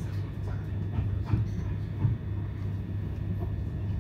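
Steady low rumble and hum of a c2c electric commuter train heard from inside the carriage while it runs along the track, with a couple of short clicks from the wheels about one and two seconds in.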